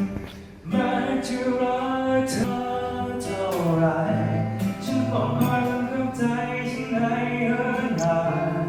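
A male singer singing to his own acoustic guitar, long held notes, starting after a brief pause about half a second in.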